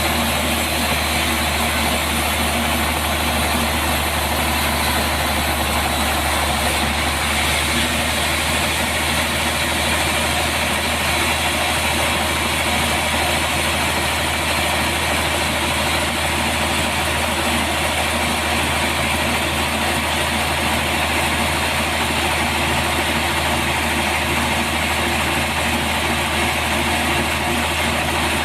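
Sawmill machinery running steadily: a constant low engine note with an even noise above it, unchanging throughout.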